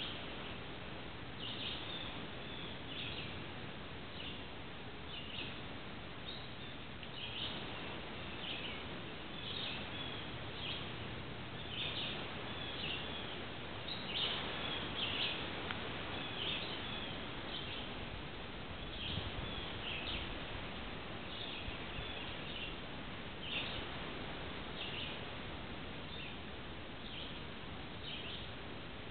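Short, high bird chirps repeated one or two times a second over a steady background hiss of outdoor noise.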